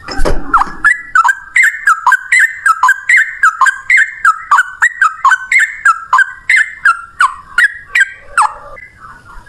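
Yellow-vented bulbul (trucukan) singing a fast 'ropel' song: a long string of short, sharply falling notes, about three a second, stopping near the end. A low thump at the very start.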